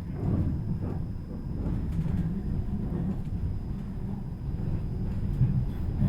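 Tram running, heard from inside the car: a steady low rumble of wheels and running gear, with a faint steady high whine over it.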